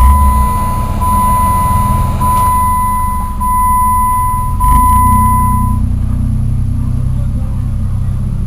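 The 2008 Jeep Wrangler's 3.8-litre pushrod V6 starting and settling into idle. Over it, the dashboard warning chime plays one high tone in five long beeps that stop about six seconds in.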